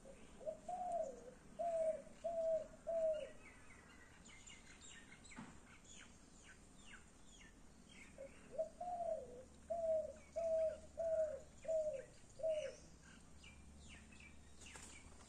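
A bird calling in two phrases of low, repeated hooting notes: four in the first, then about seven more a few seconds later. Faint high chirping of small birds comes between and after the phrases.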